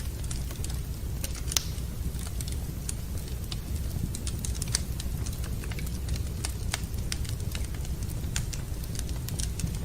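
Wood fire crackling in a fireplace: irregular sharp pops and snaps, one louder pop about a second and a half in, over a low steady rumble.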